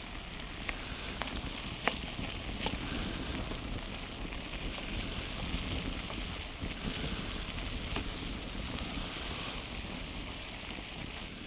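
Steady sizzling hiss of a pan of risotto cooking over a campfire, with scattered sharp crackles and pops from the fire.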